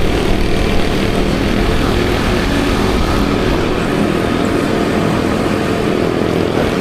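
Kymco Like 50cc scooter running at a steady cruising speed on the road, its engine hum mixed with a loud, steady rumble of wind rushing over the microphone.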